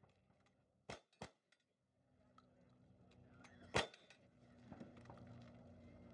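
Gunshots from single-action firearms: three sharp cracks, two close together about a second in and a louder one near four seconds in with a short ringing tail.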